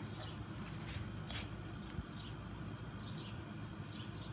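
Small birds chirping: short, high, falling chirps repeated about twice a second, over a low steady hum.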